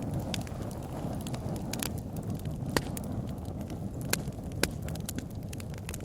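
Wood bonfire burning: a steady low rumble of flames with frequent sharp, irregular crackles and pops, a few louder pops near the middle.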